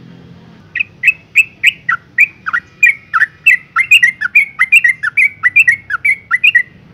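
Yellow-vented bulbul giving a fast, chattering run of short notes, about three or four a second, starting about a second in and stopping just before the end. The uploader presents it as a female in breeding condition calling to males.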